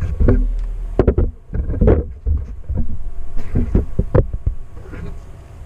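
Irregular knocks, thuds and scrapes of an oil drain pan being fetched and slid into place under the car, fading toward the end.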